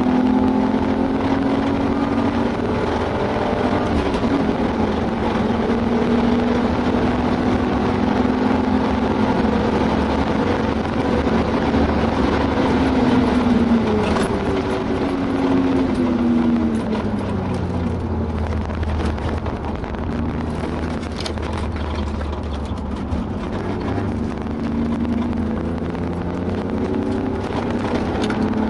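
BMW E36 328i's straight-six, with a Remus cat-back exhaust, heard from inside the cabin under full throttle, its pitch climbing steadily for about twelve seconds. The pitch then falls away as the car slows for a corner, stays low for several seconds and starts to build again near the end, over constant road and wind noise.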